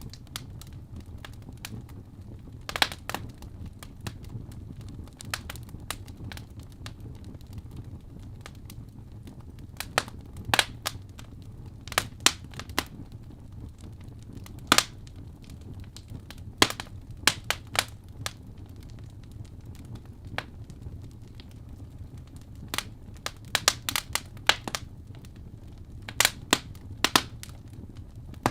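Wood fire in a fireplace burning with a steady low rumble and frequent irregular crackles and sharp pops as the logs burn.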